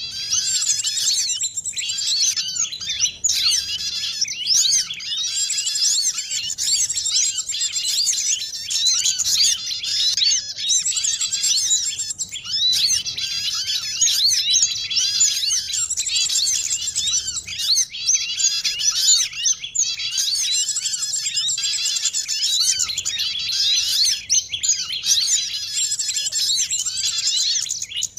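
A dense, unbroken chorus of small songbirds chirping and twittering over one another: a layered bird-catching lure recording of the kind mixed from sunbird, white-eye and prinia calls.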